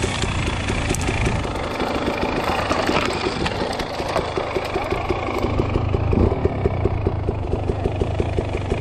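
KTM 300 EXC two-stroke dirt-bike engine running at low revs, a steady hum with an even ticking pulse.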